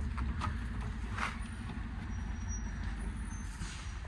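An engine idling with a steady low hum, and a few faint clicks over it.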